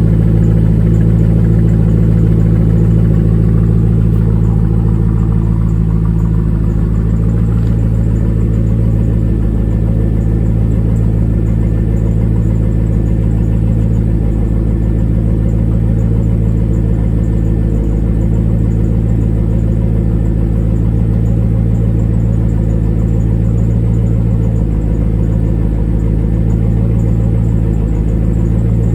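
C5 Corvette's 5.7-litre V8 idling steadily through a Borla S-Type cat-back exhaust, shortly after a cold start. The idle eases slightly about five seconds in and then holds even.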